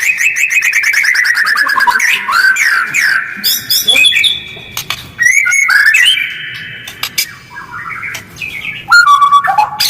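White-rumped shama (murai batu) singing a fast, rough-voiced song. It opens with a rapid run of about ten notes a second sliding down in pitch, moves into varied whistles, harsh chips and clicks, and ends with a quickly repeated note.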